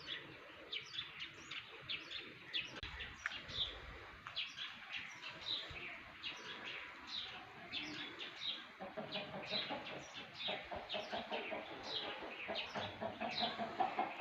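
Small birds chirping continuously, many short, quick, downward-sliding calls overlapping one another. About nine seconds in, a lower, rapidly repeated call joins underneath.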